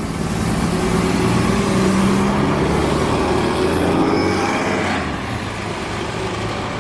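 A bus driving close past with its engine running, loudest in the middle and fading after about five seconds.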